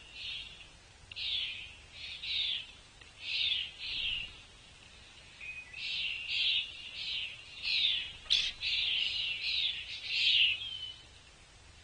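A bird calling: a series of short, fairly high notes, a few spaced ones in the first four seconds and then a faster run of about a dozen. A single sharp click sounds about eight seconds in.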